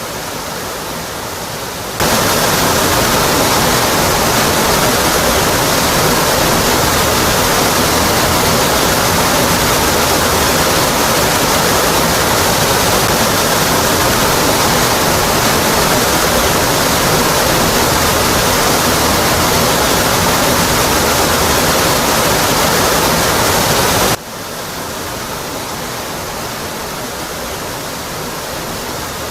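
Steady rush of a waterfall pouring onto rock. About two seconds in it turns abruptly louder and brighter, and near the end it drops back just as suddenly.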